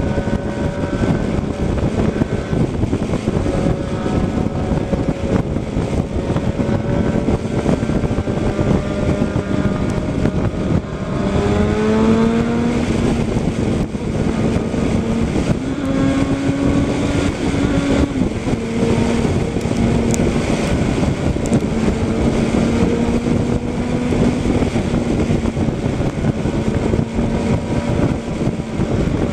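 Motorcycle engine running at speed under heavy wind rush, holding a steady note, then rising in pitch about eleven seconds in as it accelerates, and settling again later on.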